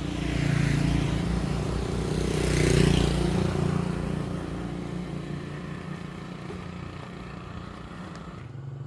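A motor vehicle engine running, louder in the first three seconds, then fading away. A different, steadier low engine hum comes in near the end.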